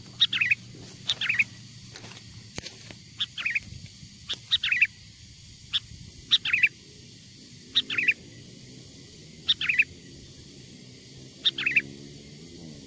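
Sooty-headed bulbul (kutilang) calling: about eight short, bright phrases, each a quick run of notes stepping down in pitch, repeated every second or two. It is a wild bulbul's call used as a lure to draw other bulbuls in.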